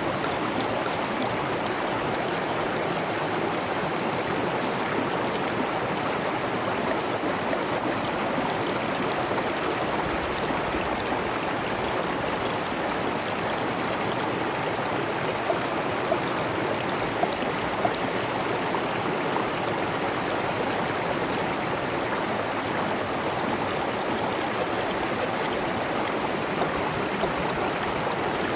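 Flowing water of a stream, a steady even rush with small splashes now and then.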